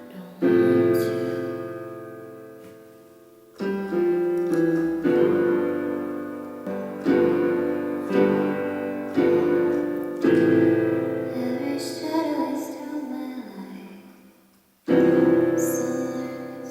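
Piano playing a slow instrumental passage of struck chords, each left to ring and fade. About three-quarters of the way in it dies away almost to silence before a new chord comes in.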